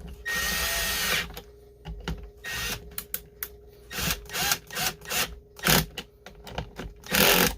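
Power driver running down two 8 mm nuts on a chainsaw's pressure-test adapter: one steady run of about a second near the start, then a series of short trigger spurts and clicks, and a last brief run near the end.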